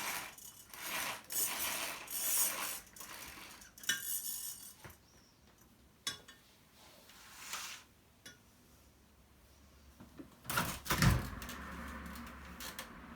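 Handling sounds: a run of short rustles and light clinks, like dishes and utensils being moved, then a single louder knock about eleven seconds in.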